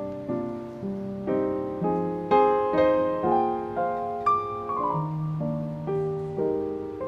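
Soft piano background music, slow chords and a melody line, each note struck and fading.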